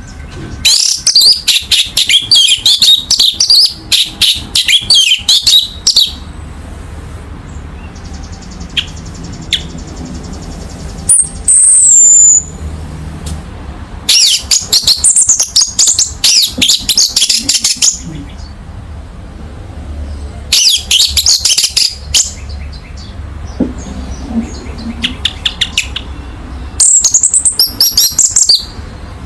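Orange-headed thrush singing: bursts of rapid, varied high notes a few seconds long, separated by pauses, with one loud falling whistle about halfway through. A faint steady low hum runs underneath.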